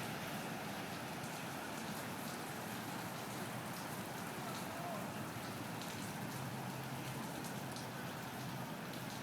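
Steady rain falling, with scattered light ticks of drops striking a surface.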